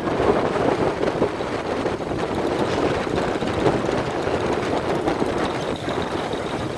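Steady rumbling noise of a moving vehicle with wind buffeting the microphone, no words over it.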